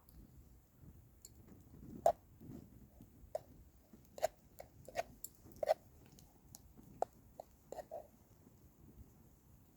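Campfire of burning wood crackling, with about a dozen sharp, irregular pops scattered over a few seconds.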